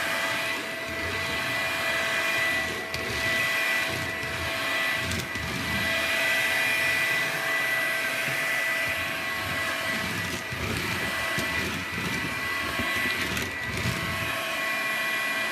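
Makita vacuum cleaner running steadily: a high, even motor whine over a rush of air, with an uneven low rumble beneath it.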